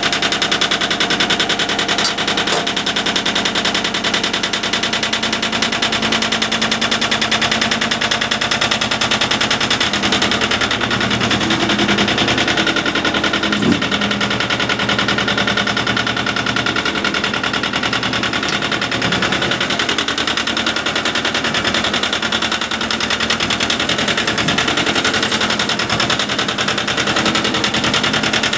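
Yanmar tractor's 18-horsepower two-cylinder diesel engine running steadily, a fast, even clatter of firing strokes.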